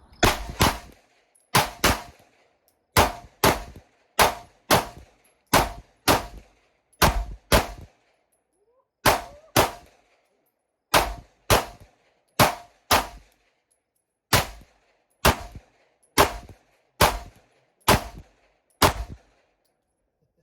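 Two 9mm pistols, a Glock 43X and a Shadow Systems MR920, fired one in each hand in a steady string of about twenty-five shots. The shots often come in quick pairs, about half a second to a second apart, each a sharp crack with a short ring.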